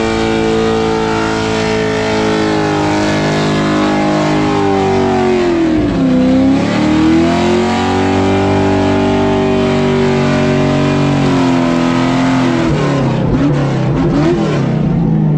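A burnout car's engine held at high revs while its rear tyres spin on the pad. The revs drop sharply and climb back about six seconds in, and waver up and down again near the end.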